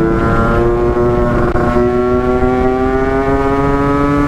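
Two-stroke motorcycle engine pulling hard under acceleration. Its pitch drops about a second and a half in as it shifts up a gear, then climbs steadily as the revs build again.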